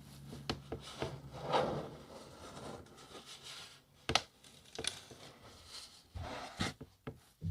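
Fingernails and fingers scratching and rubbing on a cardboard box close to the microphone: an irregular scratchy rustle with a few sharp knocks.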